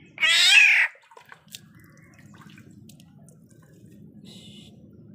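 Black-naped oriole (kepodang) giving one loud call of under a second, a quarter second in, followed by faint drips and small clicks of water.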